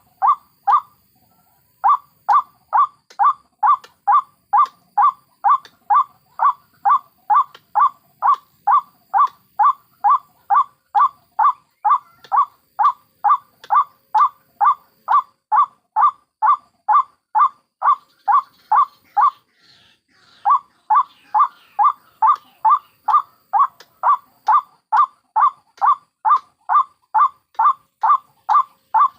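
White-breasted waterhen calling: a steady, rhythmic series of short, loud, harsh notes at about three a second, breaking off briefly about a second in and again about two-thirds through. Fainter, higher calls come in around the second break.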